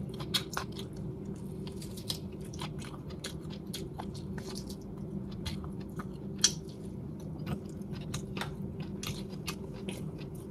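Close-up mouth sounds of chewing salt-steamed chicken: many short, wet clicks and smacks, the sharpest one about six and a half seconds in, over a steady low hum.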